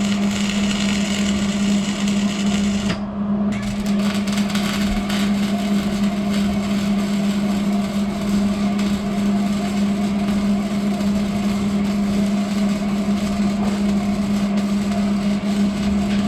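Welding on a car's exhaust pipe: a continuous crackling arc over a steady hum, with a short break about three seconds in.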